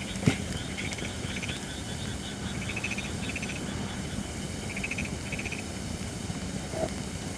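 Holly firewood burning in an open fire pit, a steady hiss of flames with a sharp crackling pop just after the start and a smaller pop near the end. Short, rapid trilling calls of insects or frogs repeat in the background every second or two.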